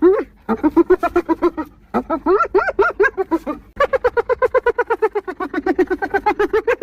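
Spotted hyena giggling: a fast run of short, pitched hee-hee notes, about eight a second. The run breaks twice for a moment within the first two seconds, then carries on without a break.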